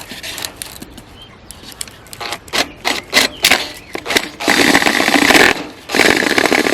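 Power drill with a 1-inch bit boring the entrance hole through a dried gourd shell. A few knocks and clicks come first, then two loud spells of drilling with a short pause between them, the second running to the end.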